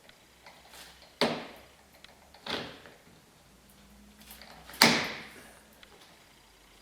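Three sharp clunks, the third the loudest, from a truck topper's rear hatch and its new gas-strut fittings being worked by hand.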